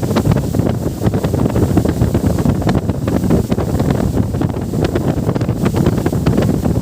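Wind buffeting the microphone aboard a moving boat: a loud, steady low rumble with constant quick crackles and gusts, and water rushing by.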